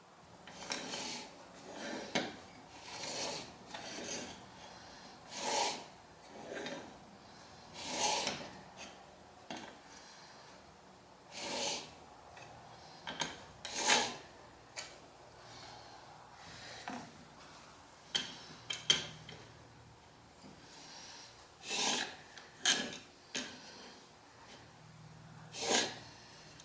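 Steel plane blade in a honing guide being rubbed back and forth on a sharpening stone: short gritty scraping strokes at an irregular pace, roughly one a second, with a few longer pauses.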